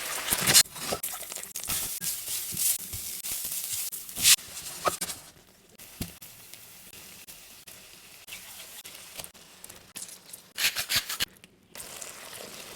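Cooking sounds: food sizzling and being worked in a pan, with sharp scrapes and clatters, in several short clips cut together.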